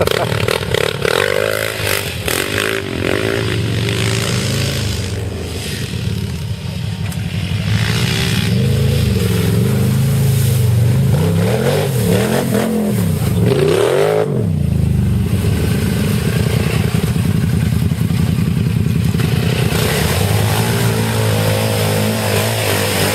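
Small off-road vehicle engine revving, its pitch rising and falling several times in the middle, then running more steadily near the end.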